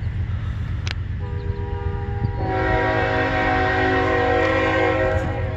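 Locomotive air horn sounding one long held blast over a steady low rumble: a few notes begin about a second in, more notes of the chord join about a second later, and the horn stops shortly before the end.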